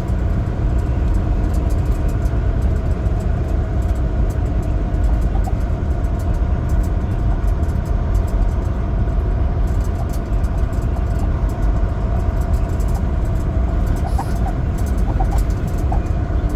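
Semi truck's diesel engine and tyres running steadily while driving: a continuous low rumble with a faint steady drone above it.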